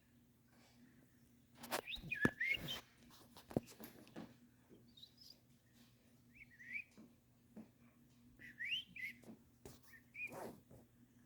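Pet bird whistling, several short bursts of notes that sweep up and down, with scattered sharp clicks between them.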